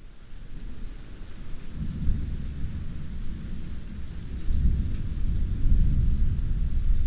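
Heavy rain hissing steadily under deep rolling thunder. The sound fades in at the start, and the thunder rumble swells about two seconds in and again, louder, from about four and a half seconds.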